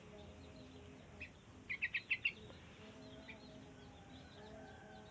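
Yellow-vented bulbul (burung trucuk) chirping: a quick run of about five short, high chirps about two seconds in, with a few single chirps around it.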